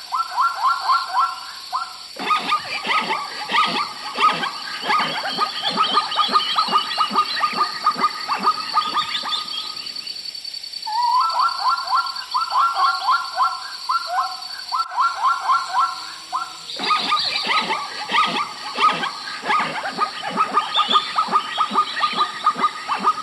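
Several animals calling in rapid repeated notes, overlapping in loud bouts of several seconds, with a harsher, lower call layer joining in twice.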